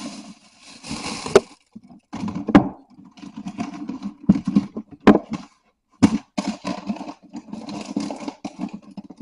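Rummaging through seasoning packets: paper packets rustling and being handled, with several sharp knocks and clacks of things being moved.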